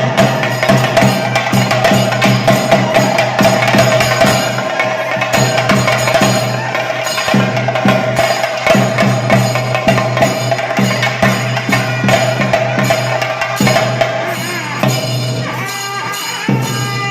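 Fast, loud temple ritual drumming, chenda-style, with cymbal clashes, accompanying a Muthappan vellattam. A steady held tone runs under the drumming and stops about fourteen seconds in.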